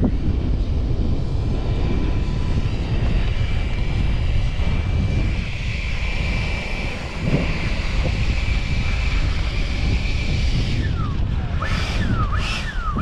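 Freewing Eurofighter Typhoon RC jet's electric ducted fans whining steadily at a high pitch, with heavy wind buffeting the microphone. Near the end the whine drops in pitch several times in quick succession.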